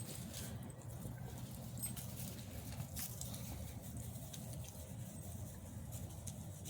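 Puppies moving about: faint, scattered light pattering and scuffling over a low steady hum.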